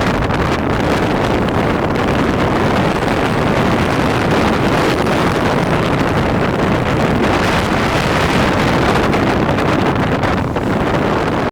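Strong wind blowing across the microphone: loud, steady wind noise.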